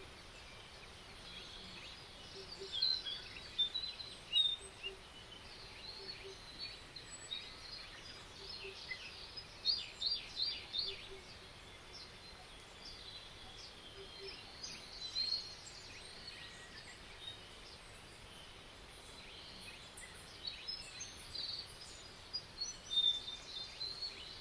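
Small songbirds chirping and twittering in short scattered bursts, busiest around the middle and near the end, over a faint steady background hiss.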